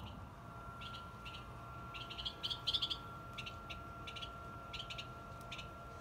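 Small birds chirping: quick clusters of short high notes, busiest and loudest about two to three seconds in. A faint steady high tone runs underneath.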